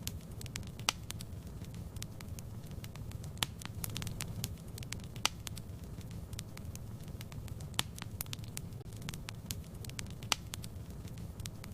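Wood fire burning in a fireplace: a steady low rumble of the flames with irregular sharp crackles and pops from the burning logs, a few louder snaps standing out.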